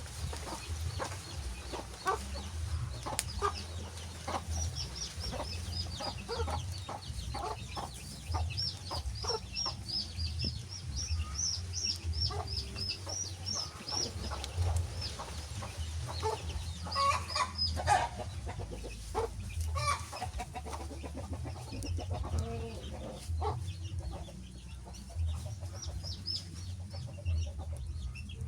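Birds calling, with a long run of quick, high repeated chirps in the first half and scattered louder calls later, over a steady low rumble.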